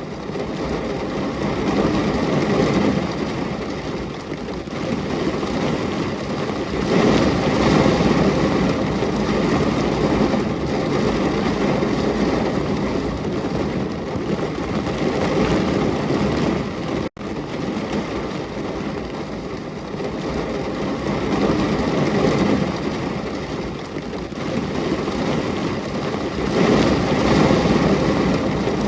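Heavy rain falling, a dense steady hiss that swells and eases every few seconds. It cuts out for an instant about seventeen seconds in.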